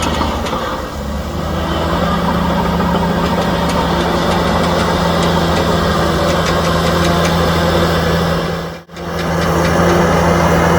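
Heavy diesel engine of earthmoving equipment running steadily, with the sound dropping out for an instant near the end before carrying on.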